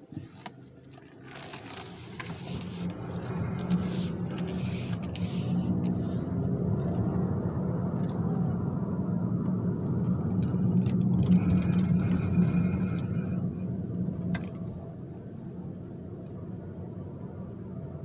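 2022 Mazda 3 moving with a steady low drone that swells to its loudest about two-thirds of the way in, where a higher grinding tone joins it as the car turns right, then eases off. The grinding on right turns appeared after a steering rack replacement.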